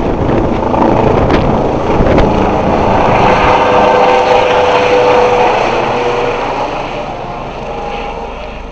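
Police Eurocopter EC135 twin-turbine helicopter running, with turbine whine and rotor noise, growing fainter over the last few seconds.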